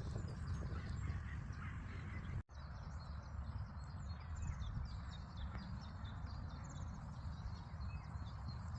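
Small birds chirping and singing, over a steady low wind rumble on the microphone. The sound drops out for a moment about two and a half seconds in.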